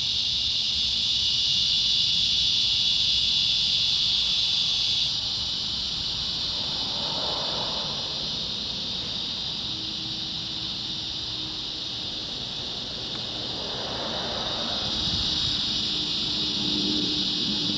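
Chorus of cicadas giving a loud, steady high buzz that drops back about five seconds in and swells again near the end. A faint low drone of a passing airplane builds under it in the second half.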